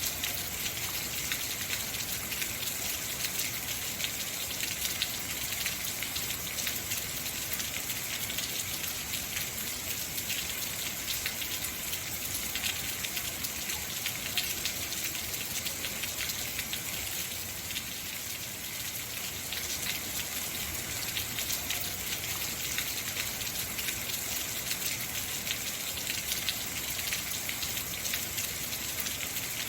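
Heavy rain falling steadily, a dense hiss with many fine drop patters on hard surfaces.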